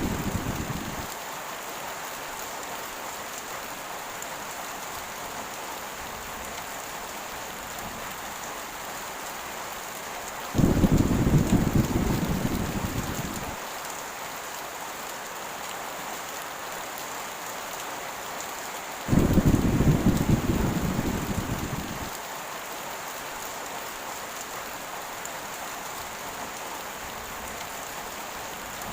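Heavy rain falling steadily, with thunder: a rumble fading away at the start, then two sudden low booms about ten and nineteen seconds in, each rolling off over about three seconds.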